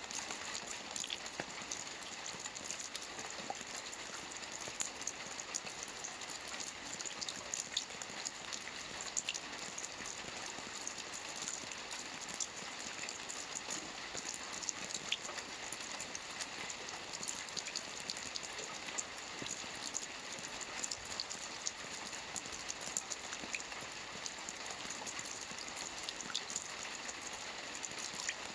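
Soft rain falling steadily on a roof: an even patter with many small, distinct drop ticks.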